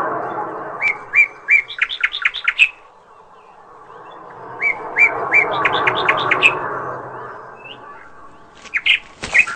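A songbird singing two phrases of short repeated notes. Each phrase starts slowly, then speeds up and climbs in pitch, and another burst of notes begins near the end.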